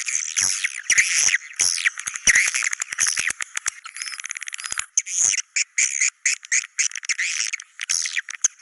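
Swiftlets calling in a dense, rapid chattering twitter, broken by quick runs of clicks and short gaps in the middle.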